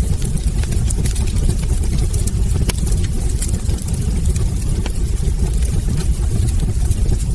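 Wood fire burning in a fireplace: a steady low rumble with frequent sharp crackles and pops from the burning logs.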